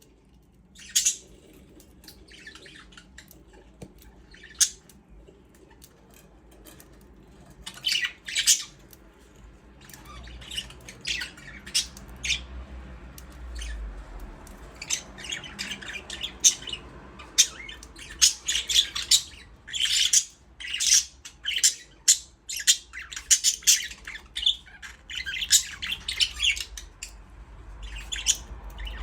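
Budgerigars chirping and squawking in short, sharp calls: a few scattered calls at first, growing much busier from about ten seconds in.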